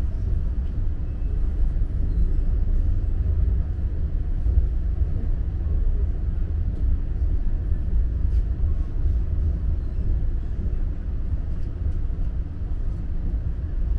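Steady low rumble of a moving train, heard from inside the passenger car.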